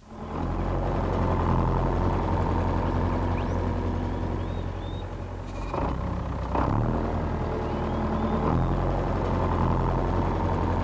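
Tractor engine running steadily, its note shifting briefly about six seconds in and again a little later, with birds chirping faintly now and then.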